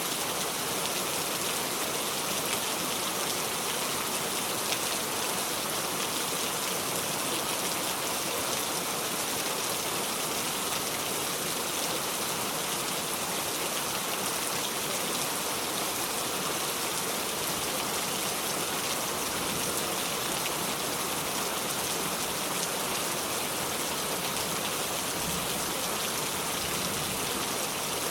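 Steady heavy rain falling and pattering on a surface, an even hiss with no thunder.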